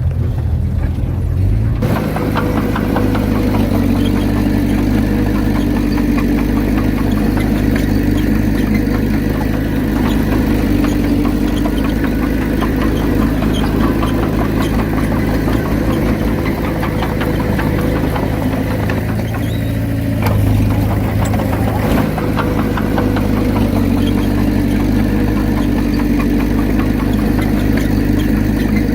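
Heavy diesel engine of earthmoving equipment running steadily at a constant speed.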